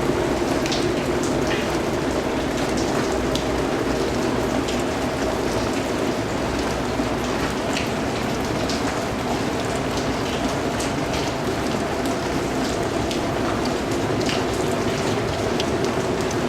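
Steady rain falling, a continuous hiss with many separate drops pattering on a surface.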